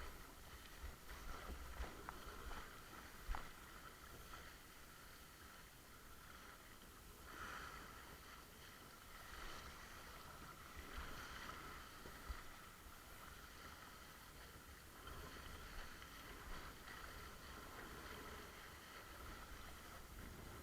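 Faint water swishing and splashing around a windsurf board moving over the water, with light wind buffeting on the microphone and a few soft knocks in the first few seconds.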